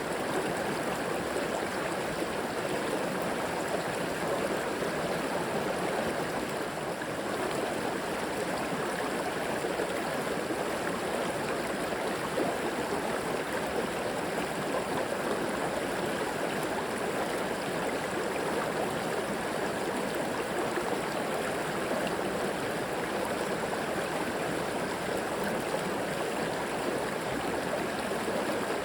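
A river flowing steadily over rocks: continuous rushing and gurgling water with no breaks or changes.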